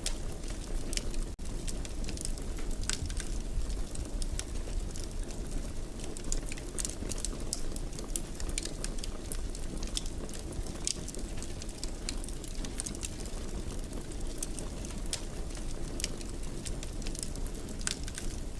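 Wood fire in a fireplace crackling, with many short sharp pops over a steady low rumble of flames.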